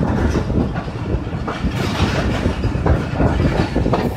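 Pakistan Railways passenger coach running on the track as the Hazara Express pulls out, with a steady rumble of wheels on rails and irregular clacks over rail joints, heard from the open coach door.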